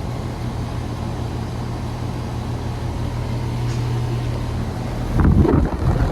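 2013 York LX Series central air conditioner's outdoor condensing unit running, a steady low compressor hum under the whoosh of its condenser fan. About five seconds in, a louder rough rumble of wind hits the microphone.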